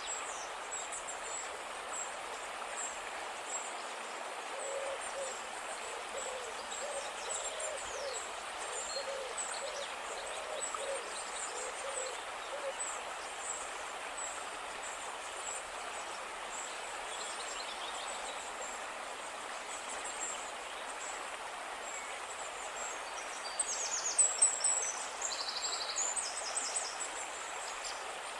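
Nature ambience of birds calling: a run of short, low, owl-like hoots in the first half, high chirps throughout, and louder trilled chirps a little before the end, over a steady hiss.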